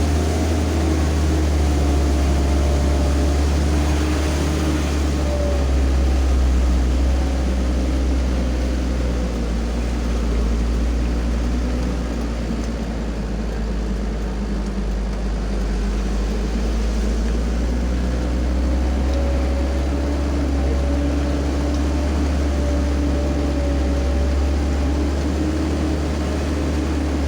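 Motorcycle engine running under load on a steep uphill climb, with a heavy low rumble throughout. The engine note sags midway and then climbs again.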